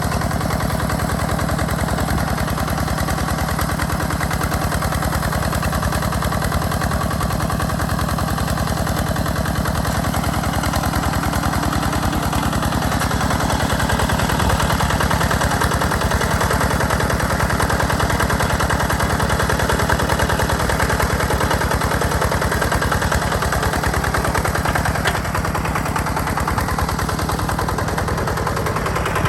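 Single-cylinder diesel engine of a walk-behind hand tractor running steadily with a rapid, even chugging beat.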